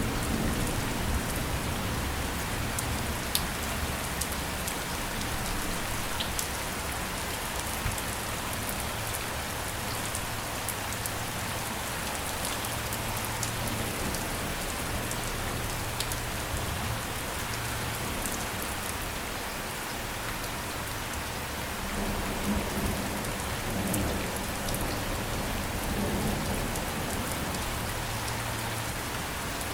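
Steady heavy rain falling on a surface, a dense hiss with scattered sharp drop ticks. A low rumble swells near the start and again about three-quarters of the way through.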